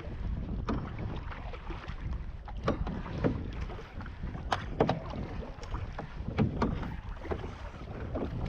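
Canoe paddling: paddles splash and knock in short, sharp, irregular strokes, roughly one a second, over a steady low rumble of wind on the microphone.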